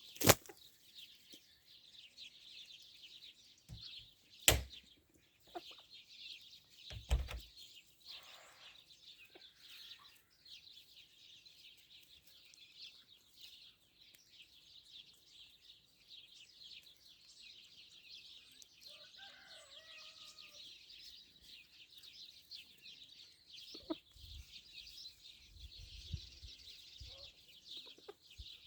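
Free-range chickens clucking now and then over a steady high-pitched hiss. A few sharp knocks in the first seven seconds are the loudest sounds.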